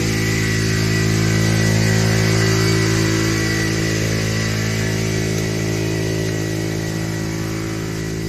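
Honda CD 70 motorcycle's single-cylinder four-stroke engine running steadily at a constant speed while driving a tubewell water pump. A faint steady whine rides above it.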